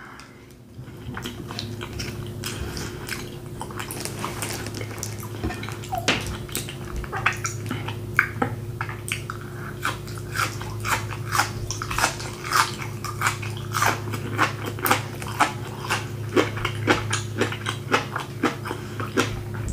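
Close-miked chewing and lip smacking as a woman eats a mukbang meal of baked beans and asparagus: wet, irregular mouth clicks, a few each second, over a steady low hum.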